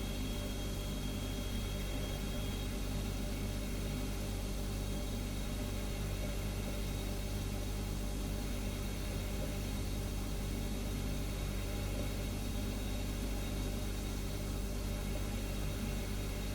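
Refrigerator humming steadily: a low, even drone made of several steady tones, with a faint hiss over it.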